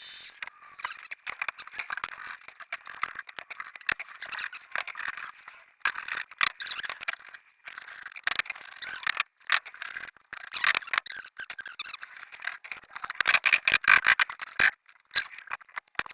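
Irregular scraping, rattling and clicking of small hard objects being handled, busiest about three-quarters of the way through.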